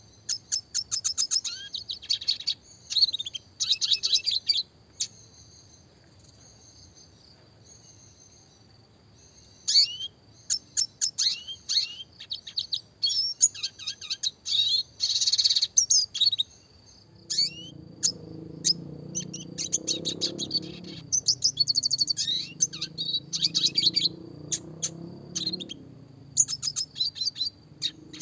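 Red siskin (Spinus cucullatus) singing: bursts of rapid, high twittering trills and quick rolls, broken by short pauses. A low drone joins from about two-thirds of the way through.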